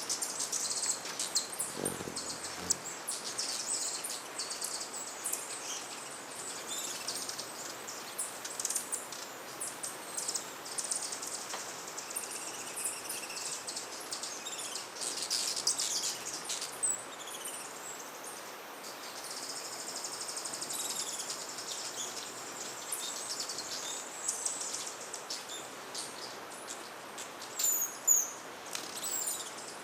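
Many hummingbirds chipping and twittering in high, thin, overlapping calls, with a few sharper sweeping chirps near the end. There is a soft low thump about two seconds in.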